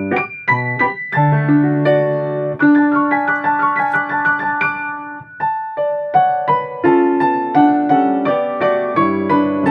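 Piano played four hands, two players at one keyboard, in a medley of Japanese autumn children's songs: a melody over held low bass notes, with a short break in the playing a little past halfway.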